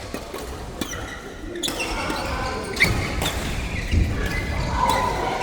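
A series of sharp hits echoing in an indoor hall, several irregularly spaced strikes of a doubles rally, over a background of hall noise.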